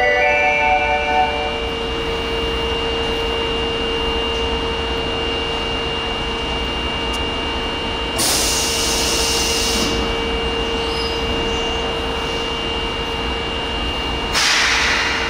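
Electric train standing at a station platform: a steady electrical hum, broken twice by loud bursts of hiss, about eight seconds in and again near the end. A few chime tones stop about a second in.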